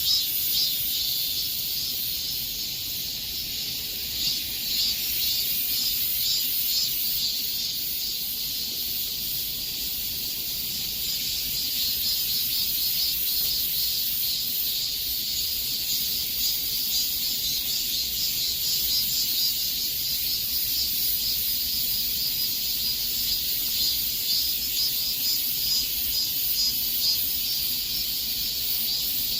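Cicadas singing in a dense, continuous chorus: a high, steady buzzing with a fast pulse.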